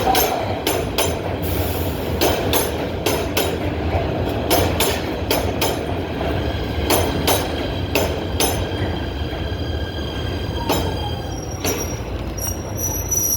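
PATH rapid-transit train running on its rails: a steady low rumble with irregular metallic clacks from the wheels over rail joints and a thin steady wheel squeal, which rises to a higher whine near the end.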